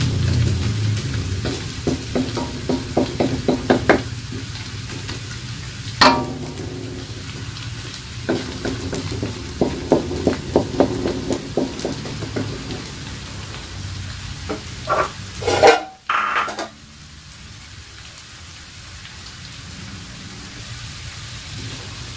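Sliced shallots sizzling in hot oil in a stainless steel wok as they begin to brown, with a wooden spatula stirring and knocking against the pan in quick runs of taps. Near two-thirds through comes a brief louder clatter, after which the sizzle goes on more quietly.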